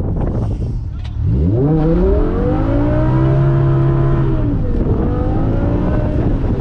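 BMW E60 M5's 5.0-litre V10 revving up sharply about a second in, holding high for a couple of seconds, then dropping back, over a steady low rumble.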